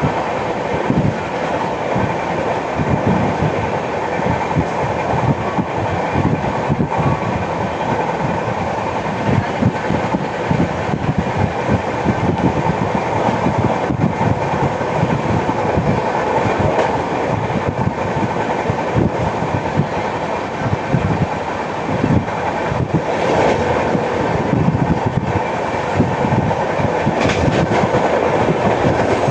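Express train running at speed, its wheels clattering over the rails in a rapid rhythmic run of low thuds, the pounding typical of a flat wheel on the 12810 Howrah–CSMT Mail.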